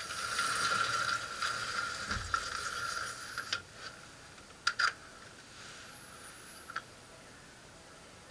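Sharp mechanical clicks and clacks from a Kral Puncher Empire XS .22 PCP air rifle's action as it is handled, with a loud double clack about halfway and a last click a couple of seconds later. A rushing hiss fills the first three and a half seconds.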